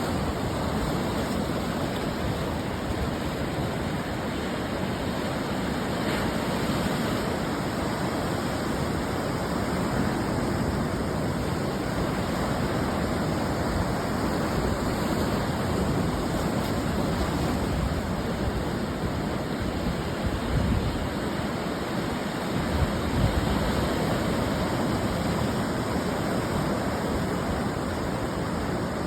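Ocean surf breaking and washing on a beach: a continuous rushing noise that swells and eases gently, with a couple of brief louder surges near the end.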